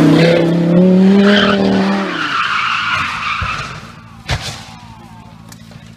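A car's engine running hard, then tyres skidding and squealing, and a single sharp impact about four seconds in.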